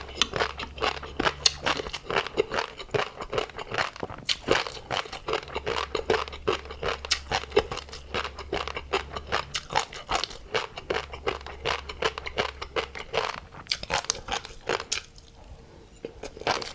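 Close-miked chewing of tobiko fish roe with a crunchy seafood topping: rapid crisp crunches and pops, several a second, with a short pause near the end.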